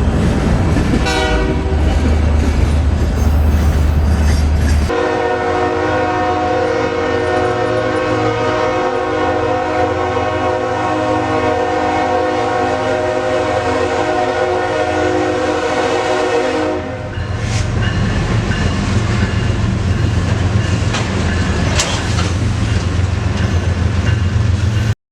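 A diesel locomotive's air horn sounding one long blast of about twelve seconds. Before and after it the locomotive's engine rumbles, and near the end the wheels click over the rail joints.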